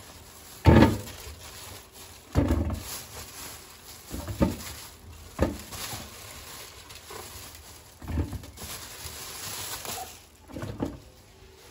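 Kitchen items being handled and put down: about six knocks and thuds, the first the loudest, with rustling and light clatter between.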